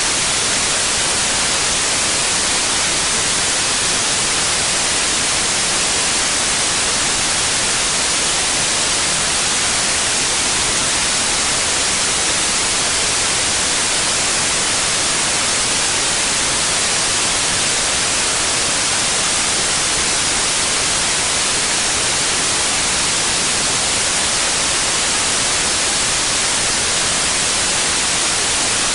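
Steady white noise: an even, unchanging hiss across the whole frequency range, with no pitch or rhythm.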